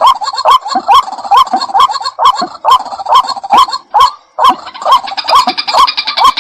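White-breasted waterhen calling: a long run of loud, short, repeated notes, about two a second, with a brief break a little after four seconds.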